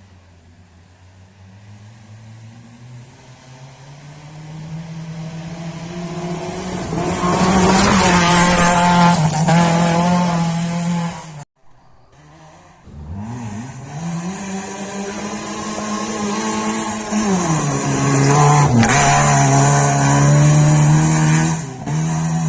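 Rally car engine at high revs approaching and passing, growing steadily louder over several seconds. After a sudden cut, a second car comes up, its engine pitch dipping briefly at gear changes before it runs loud at high revs again.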